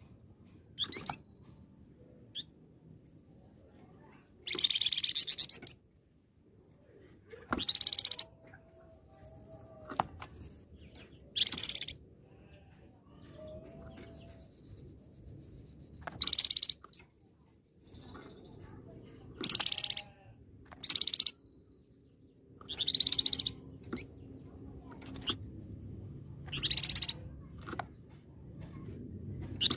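A caged songbird known in Indonesian bird-keeping as a flamboyan, singing in full voice ('gacor'). It gives about ten loud, short bursts of high song, each up to a second and a half long, a few seconds apart, with faint thin whistled notes between them.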